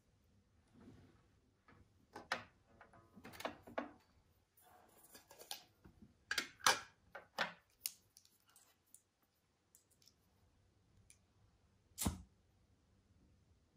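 Objects being handled: a scatter of small clicks, taps and knocks, then one louder, deeper knock about twelve seconds in.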